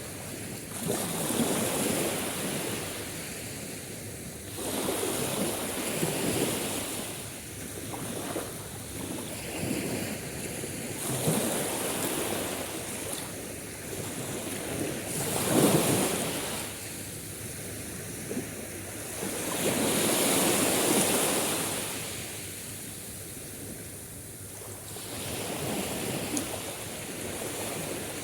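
Sea waves breaking and washing in, surging and falling back every few seconds, with one wave louder than the rest about halfway through.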